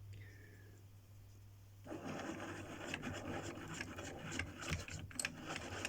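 A low steady hum, then, starting about two seconds in, rough rubbing and scraping with scattered clicks as the 3D-printed caster wheel and its fitting are handled and worked together.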